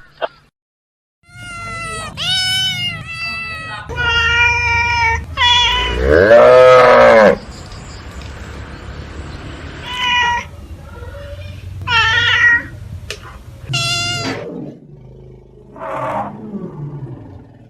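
A cat meowing repeatedly: about eight separate calls with bending pitch, the loudest a longer, lower drawn-out call about six seconds in.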